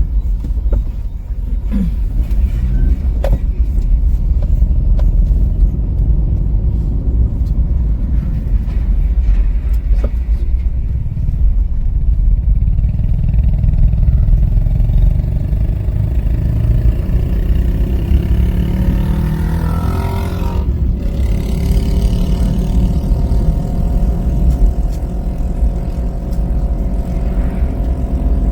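Car driving along a highway, a steady low rumble of road and wind noise. In the second half another engine's note swells, peaks and passes about twenty seconds in.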